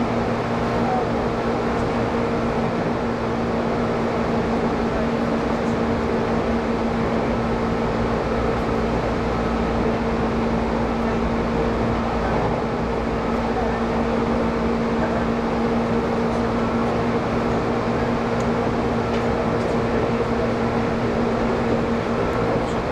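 Inside a Tobu electric commuter train running steadily: continuous running noise of the train, with a steady hum.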